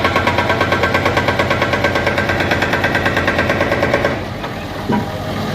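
A machine pounding in a rapid, even rhythm of about eight beats a second, which stops about four seconds in and leaves a lower, steady engine hum.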